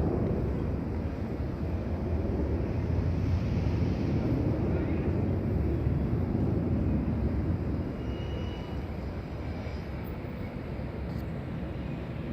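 Boeing 737 jet engines at takeoff power, a loud low rumble that fades gradually as the airliner climbs away.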